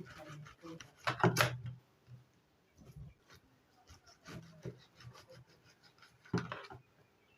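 Knife cutting through pineapple rind, a few irregular rasping strokes as the thick peel is sliced away; the loudest come about a second in and again near the end.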